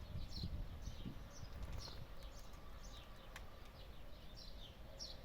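Small birds chirping in the background: a string of short, high, falling chirps, with a low rumble in the first second or two.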